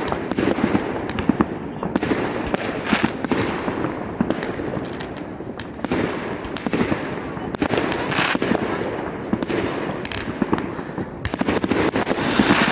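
Fireworks going off in a dense run of overlapping bangs and crackles, with a louder stretch of crackling and hiss near the end.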